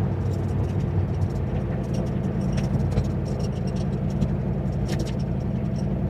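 Turbocharged Ford 351 Windsor V8 in a Foxbody Mustang running steadily while cruising, a constant low drone, with scattered light ticks and rattles over it.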